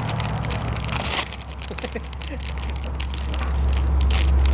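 Crisp crunching and crackling of crispy fried fish skin being broken and chewed, a run of small irregular cracks. A low rumble grows louder near the end.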